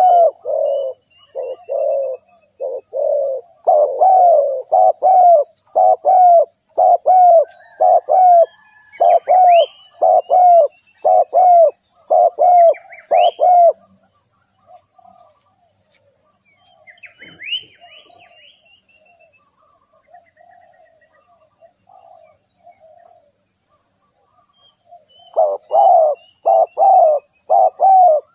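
Spotted dove cooing in rapid runs of short, low coo notes, about two a second. The coos break off for about ten seconds in the middle, where only faint softer coos and a few high thin chirps from small birds are heard, then resume near the end.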